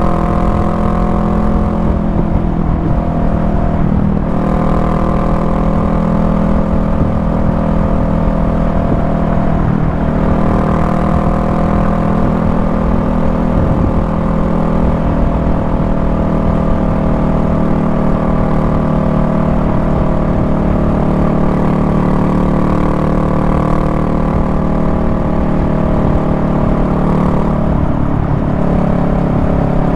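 Honda Rebel 500's parallel-twin engine running steadily at highway speed, heard from the rider's seat. Its pitch changes briefly a few times, about four and ten seconds in and again near the end.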